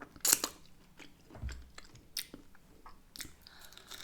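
Close-up eating sounds of a person chewing meaty chicken wings: wet, irregular smacking and clicking of mouth and lips, with sharper bites now and then.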